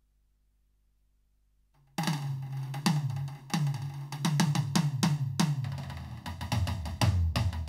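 Roland TD-17KVX electronic drum kit played through its TD-17 module: near silence for about two seconds, then a busy drum pattern of snare, kick and pitched toms whose tone falls after each hit.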